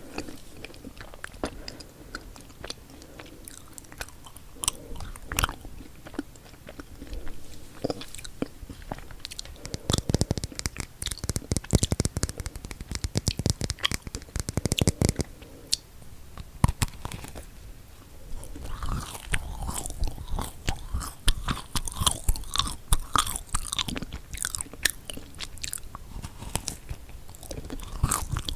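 Close-miked eating of chocolate-coated marshmallow cookies: bites and chewing, with many sharp, crisp clicks that come in dense clusters at times.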